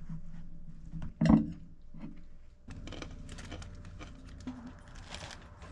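Kitchen cooking sounds: a sharp clatter about a second in, then a steady hiss over a constant low hum.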